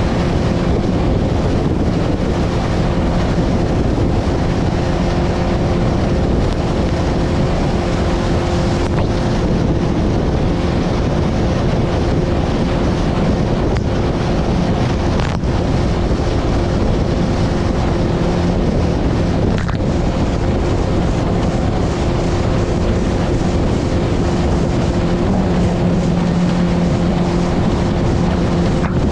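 Motorboat engine running steadily at speed, its hum nearly buried under heavy wind buffeting the microphone, with the rush of choppy water.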